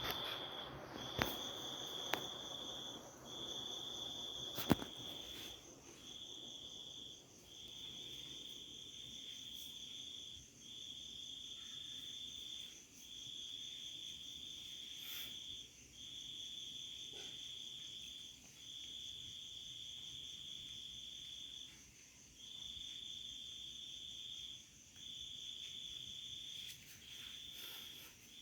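An insect, cricket-like, trilling on one high pitch in repeated bursts of one to two seconds with short gaps between them. A faint steady high tone runs alongside, and a few sharp clicks fall in the first five seconds.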